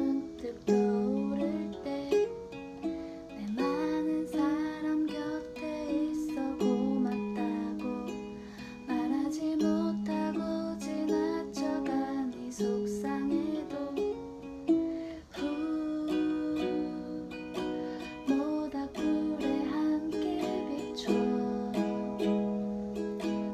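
Ukulele playing a song: a continuous run of plucked notes and chords.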